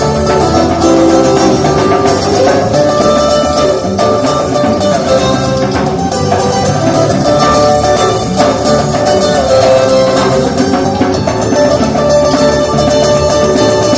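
A live jam band playing an instrumental passage, guitar to the fore over drums, with no singing.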